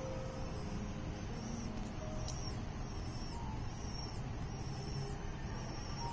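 Falcon chicks calling in the nest: short, high chirps repeated about once or twice a second. Underneath is a steady rumble of traffic.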